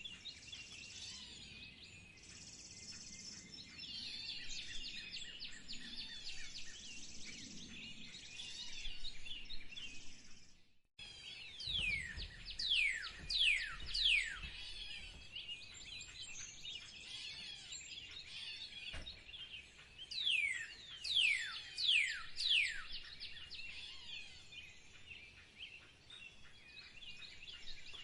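Songbirds chirping in a busy outdoor chorus. After a brief break about 11 s in, a bird gives two runs of loud downward-sliding whistled notes, four notes in quick succession each time.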